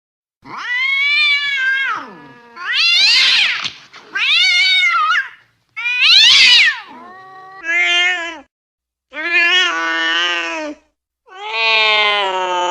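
Cat yowling angrily: a series of about seven long, drawn-out calls that rise and fall in pitch, with short gaps between them, the last one held longer.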